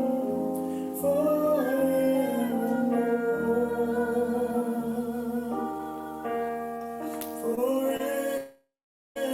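Worship song: a voice singing long held notes over sustained keyboard chords. The sound cuts out to silence for about half a second near the end, then resumes.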